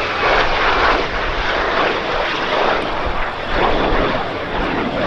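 Jet noise from the BAC Strikemaster pair's Rolls-Royce Viper turbojets as they fly their display, a loud steady rush that swells and eases slightly.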